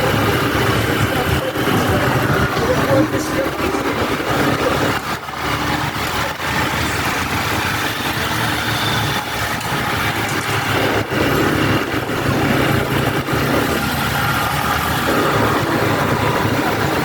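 Motorbike engine running under way, with people's voices mixed in.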